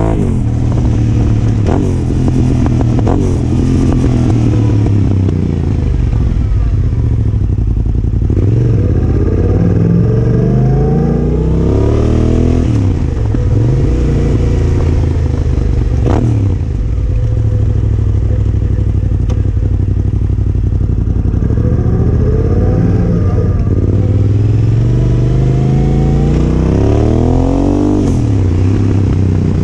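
Yamaha Ténéré 700's parallel-twin engine through a Yoshimura R-12 exhaust, riding along under load: its pitch climbs and drops again and again as the bike accelerates through the gears and eases off.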